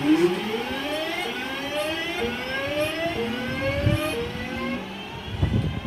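Class 323 electric multiple unit accelerating away from a standstill. Its traction motors give a series of rising whines, each climbing, dropping back and climbing again higher, in the stepped pattern typical of the class as it picks up speed.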